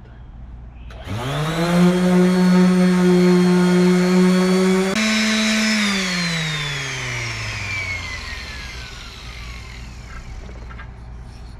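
Electric sander's motor starting and rising to speed, running steadily, then switched off and winding down with a falling whine over several seconds.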